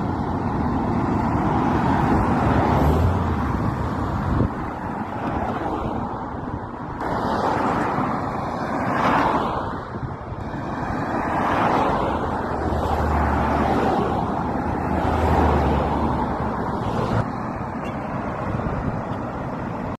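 Road traffic: cars passing on a road, rising and falling several times, with wind buffeting the microphone.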